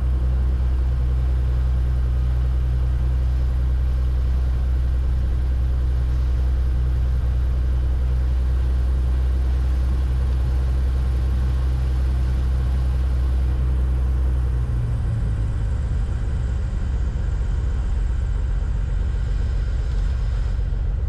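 Beechcraft Bonanza's six-cylinder piston engine idling on the ground while the aircraft waits to take off, a steady low drone. About fifteen seconds in, the steady hum turns into a rougher, uneven rumble.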